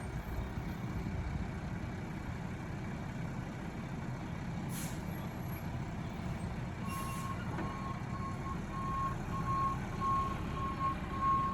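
Garbage truck's engine running steadily, with a brief hiss about five seconds in and its reversing alarm beeping at an even pace from about seven seconds in: the truck is backing up.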